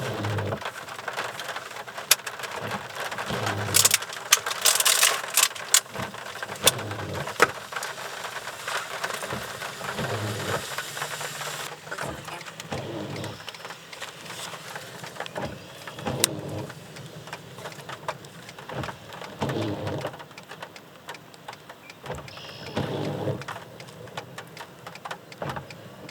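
Rain hitting the car, a steady patter with many sharp individual drop taps that are densest in the first several seconds, and low muffled swells coming and going.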